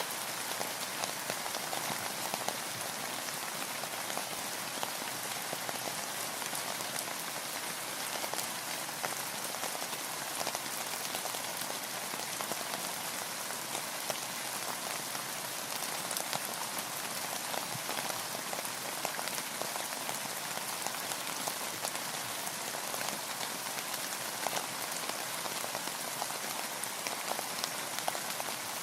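Steady rain falling: an even hiss with many distinct ticks of single drops striking close by.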